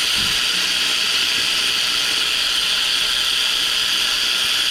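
Ratchet wrench clicking steadily without a break, as a bolt is run in during gearbox refitting.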